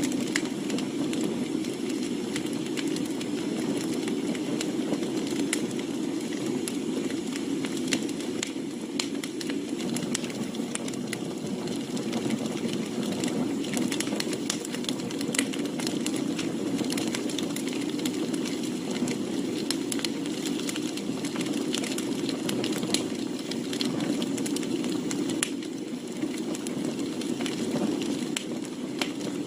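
Firewood burning in an open campfire: a steady low rush of flame with frequent sharp crackles and pops from the burning logs.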